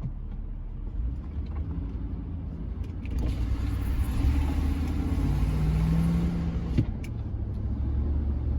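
Road and engine noise inside a Chevrolet C10 pickup's cab while driving, swelling to a louder rush for a few seconds in the middle, with a short rising hum near the end of that stretch.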